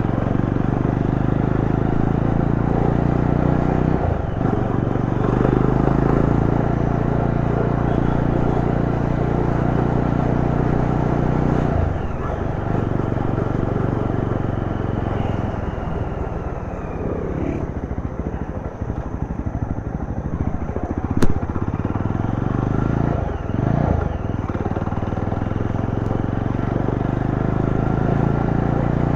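Yezdi Roadster's single-cylinder engine running under way as the motorcycle is ridden, its note breaking briefly a few times. Past the middle it drops to slow, separate firing pulses, and a single sharp click follows.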